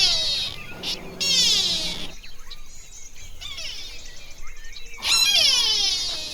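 High-pitched animal calls in a few bouts, each lasting about a second, with a falling pitch; the loudest comes about five seconds in.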